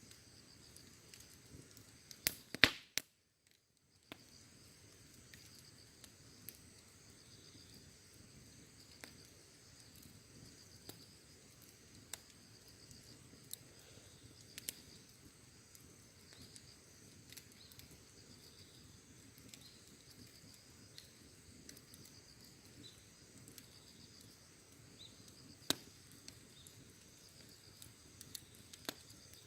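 Campfire crackling, with scattered sharp pops and a loud cluster of snaps about two to three seconds in, over a steady high insect chorus of crickets.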